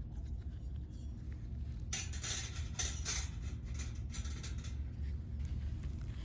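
Light metal pieces clinking and clattering as they are handled, most busily in the middle, over a steady low rumble.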